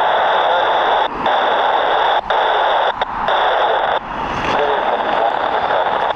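Air traffic control radio hiss: a steady rushing static with a thin high tone, broken by several brief dropouts.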